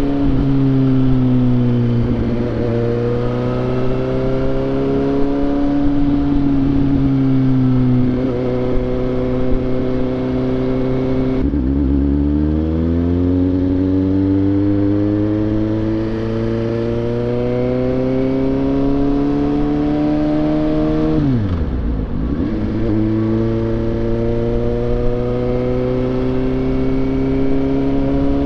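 Suzuki GSX-S750 inline-four engine under way, its pitch climbing steadily under acceleration and dropping sharply at each gear change, four times, with a deep dip and recovery near the end.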